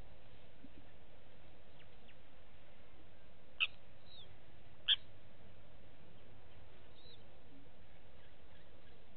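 Two short, sharp bird calls about a second apart, over a steady background hiss, with a few fainter chirps.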